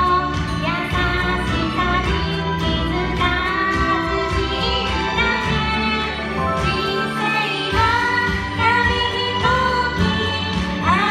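Two female singers singing a Japanese pop ballad over an instrumental backing with a steady bass line.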